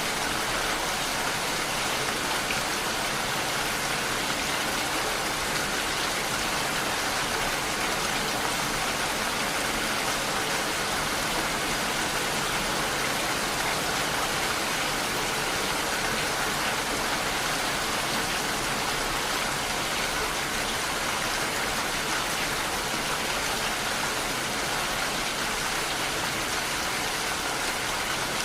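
Steady rainfall, an even hiss of drops on surfaces with no thunder or changes.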